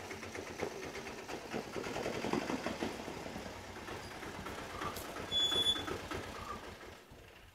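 Auto-rickshaw's small engine puttering rapidly as it drives up and pulls to a stop, growing louder as it approaches and dying away near the end. A brief high squeal comes about five seconds in.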